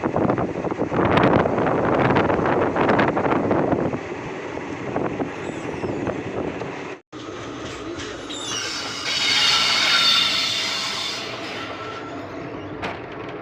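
Passenger train running: a rattling clatter of wheels on the rails for the first few seconds, then, after a short break, a high-pitched wheel squeal lasting about three seconds.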